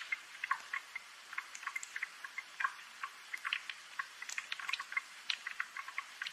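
Light rain with water drops falling in an irregular patter of small ticks and plinks, several a second, over a faint hiss.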